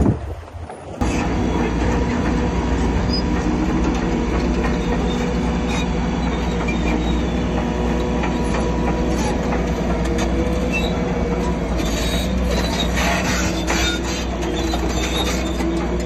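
Crawler bulldozer working: its diesel engine runs steadily under the squealing and clanking of its steel tracks. The sound cuts in abruptly about a second in.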